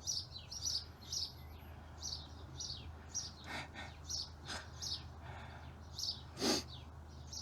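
Small birds chirping repeatedly, short high chirps two or three a second, over a steady low hum, with one louder brief sound about six and a half seconds in.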